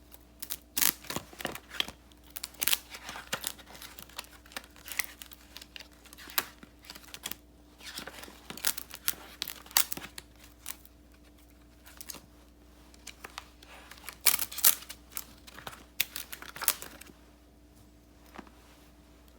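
Paper stickers being peeled from their sheets and paper crinkled and handled up close, in bursts of sharp crackles with short pauses between, settling quiet for the last couple of seconds.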